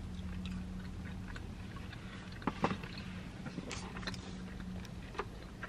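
Bites and chewing of a crispy fried chicken nugget, with a sharp crunch about two and a half seconds in and a few smaller crunches after. A steady low hum from inside the car runs underneath.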